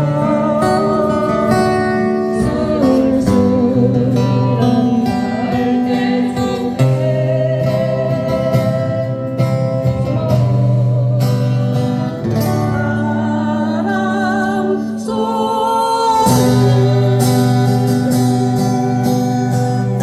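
Acoustic guitar strumming chords, with a sung melody carried over it.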